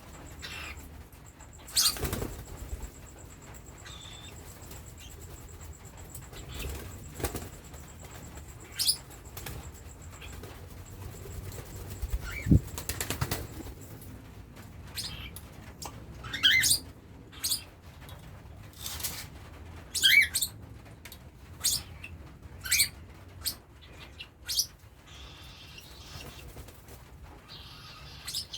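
Cockatiel chicks giving short, scattered chirps and brief bursts of wing flapping, more frequent in the second half, typical of chicks begging to be hand-fed.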